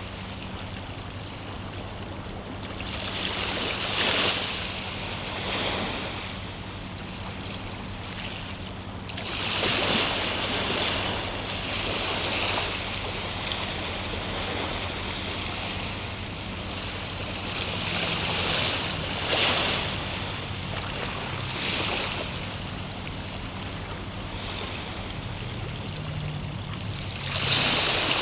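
Ocean surf: waves breaking and washing in, a steady rush of water that swells into a louder surge every few seconds.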